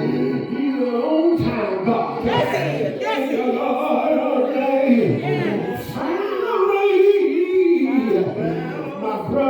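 Gospel singing by several voices, sounding like a church choir or congregation.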